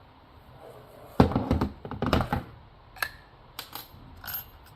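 Chainsaw housing and hand tools being handled during disassembly: a cluster of heavy knocks about a second in, then a few light scattered clicks.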